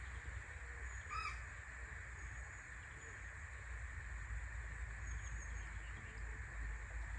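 A bird gives one short call about a second in, over steady outdoor background noise with a low rumble. Faint high chirps of small birds come now and then.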